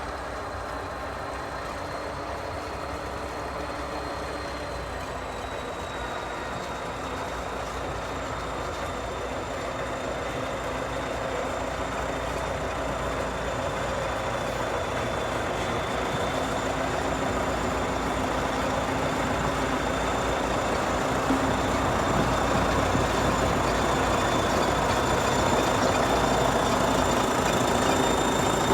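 Heavy diesel bulldozer or tractor working through snow, its engine running under load with a steady high whine over the rumble, growing steadily louder.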